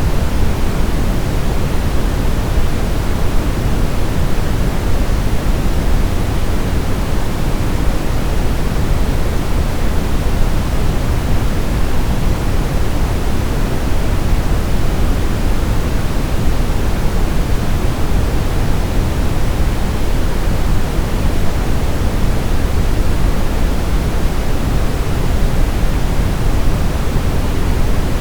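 Steady brown noise: an even, unbroken hiss weighted heavily toward the low end, like a deep rumble with little treble.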